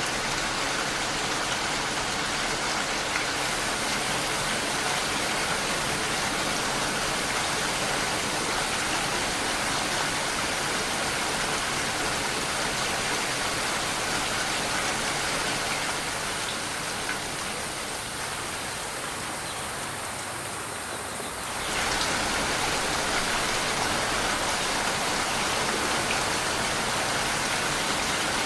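Steady rain falling, an even, dense hiss. About 16 seconds in it thins and softens slightly, then comes back full all at once about 22 seconds in.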